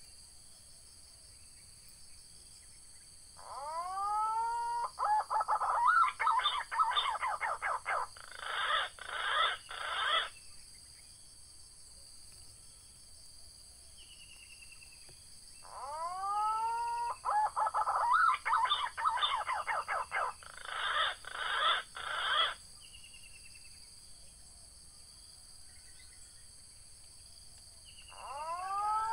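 Green pigeon (punai) call, given twice about 12 seconds apart. Each phrase opens with a few curving whistled notes, runs into a fast series of notes for several seconds, and stops abruptly. A third phrase starts near the end.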